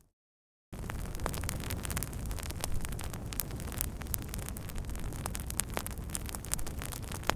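Wood fire burning: a steady low rumble with frequent sharp crackles and pops from the burning wood. The sound drops out to silence for a moment at the start, then comes back.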